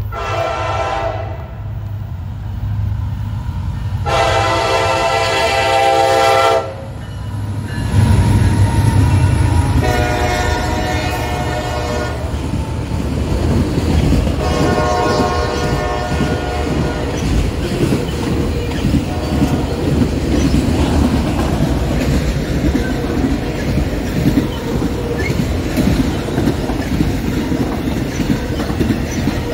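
Freight train's diesel locomotive sounding its air horn in four blasts, the first short and the second the longest. The locomotives pass about eight seconds in, and the cars then roll by with a steady rumble of wheels on the rails.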